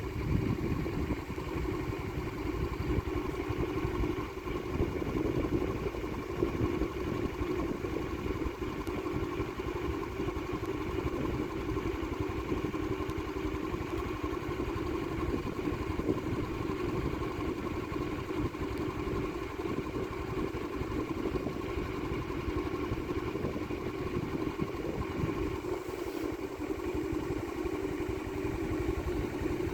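Steady engine drone with a low rumble, unchanging throughout.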